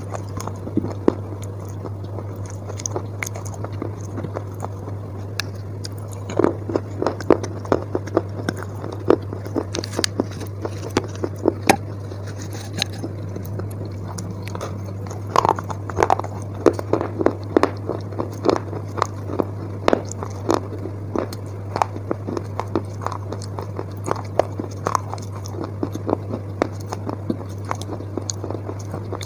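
Close-miked chewing of wet chalk paste: irregular sharp crunches that come in bunches, over a steady low hum.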